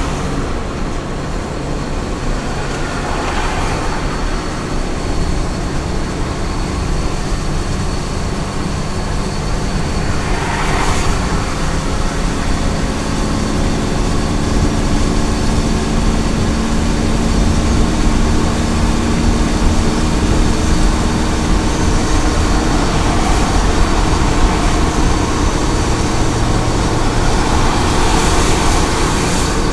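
Small truck cruising on a highway: steady engine drone and tyre and road noise, with a few brief swells of rushing noise from time to time.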